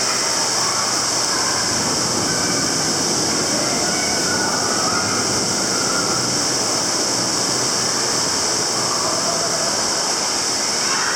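Steady rushing water echoing inside an enclosed tunnel, a continuous hissing wash that holds level throughout.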